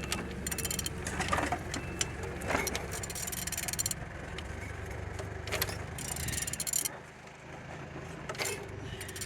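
Used F4R771 engine being turned over by hand, with irregular mechanical clicks and knocks from the turning, over a steady low hum that drops away about seven seconds in.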